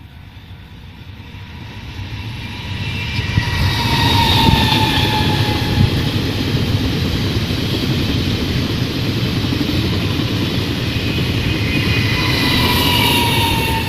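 Taiwan Railway train passing close by: the rumble of wheels on the rails builds over the first few seconds and holds, with high tones that slide slightly down in pitch, loudest about four seconds in and again near the end.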